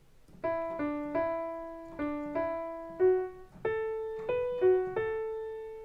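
Piano playing a simple single-note melody, about ten notes with the last one held and fading out. It is the melody line of a bossa nova tune, played slowly for learning.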